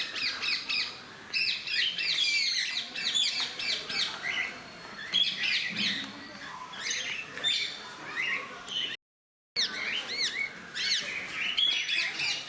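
A mixed flock of small parrots (cockatiels, lovebirds and conures) chirping and squawking in many overlapping, quick up-and-down calls. The sound cuts out completely for about half a second around nine seconds in.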